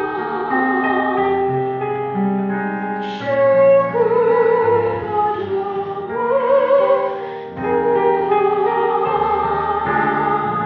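A young woman sings solo in an operatic pop style, holding long notes with a wide vibrato over a sustained instrumental backing.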